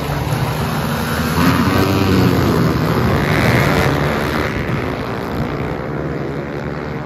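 Motorcycle engines running at speed on a race track, their sound swelling and fading as a bike passes about three to four seconds in.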